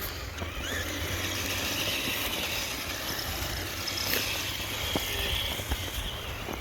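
A radio-controlled Traxxas TRX-4 Sport truck driving, its brushless electric motor whining faintly over a steady low rumble.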